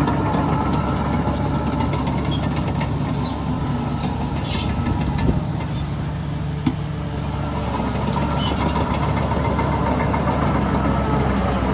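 Heavy diesel earthmoving machinery, a bulldozer and dump trucks, running steadily with a deep rumble, with scattered light metallic clinks and one sharp knock about two-thirds of the way through.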